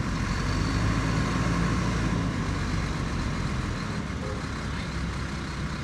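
Heavy diesel engine of earthmoving machinery running steadily, its deep low rumble easing about four seconds in.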